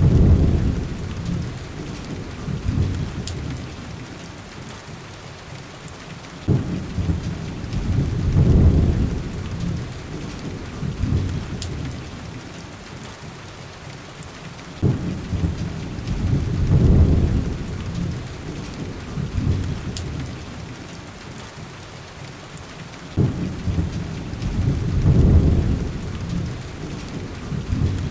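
Steady heavy rain with a low rolling rumble that sets in sharply, swells and fades about every eight seconds. A few faint crackles from a wood fire are also heard.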